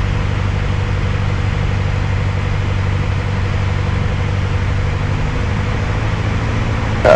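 Steady drone of a Piper Archer's four-cylinder Lycoming engine and propeller, heard inside the cockpit, with an even low hum and broad rushing noise.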